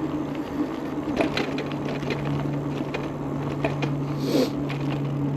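Ride noise from an e-bike in motion: a steady low hum under a noisy wash, with many small scattered clicks and rattles and a brief hiss about four seconds in.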